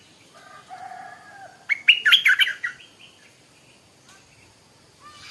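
Stripe-throated bulbul singing: a loud burst of quick warbling notes about two seconds in, after softer drawn-out notes.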